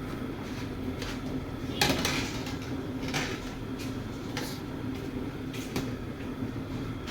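Metal utensil knocking and scraping against a large cooking pot several times, the loudest knock about two seconds in, over a steady low rumble.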